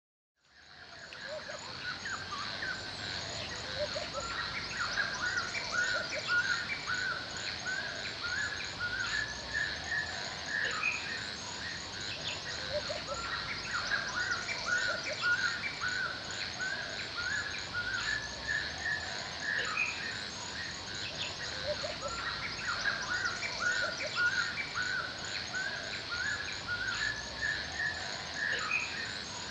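Forest ambience: many birds chirping and calling over a steady background hiss, with a fast, high, continuous twittering above them. It fades in about half a second in.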